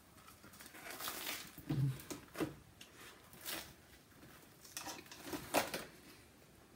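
A person eating a Flamin' Hot Cheetos soft-shell crab sandwich close to the microphone: quiet, scattered crunches and wet chewing noises, a dozen or so short bites and chews.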